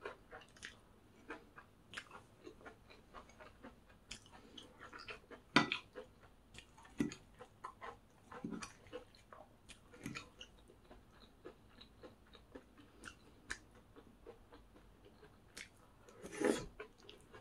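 A person chewing and crunching food close to the microphone, with irregular soft crackles and a few louder crunches, the loudest near the end.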